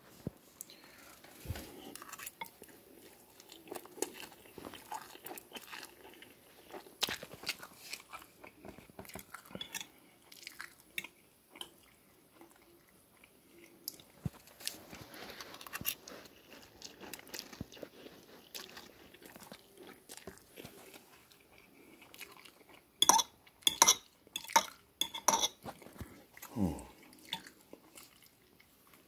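Close-up chewing of instant noodles, with a fork scraping and clinking on a plate. A quick run of sharp fork clinks on the plate a little over twenty seconds in is the loudest part.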